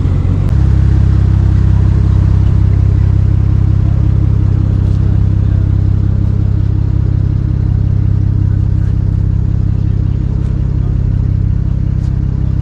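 A car engine running steadily at idle, loud and close, settling into an even low hum about half a second in.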